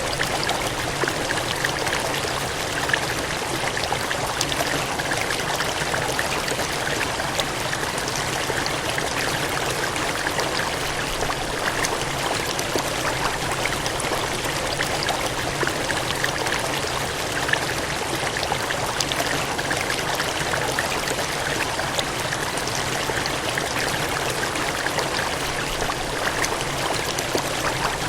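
Water gushing and cascading in a steady, unbroken rush, with small splashes flickering through it.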